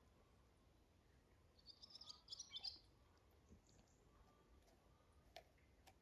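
Near silence, broken by a short burst of faint, high bird chirps about two seconds in and two soft clicks near the end.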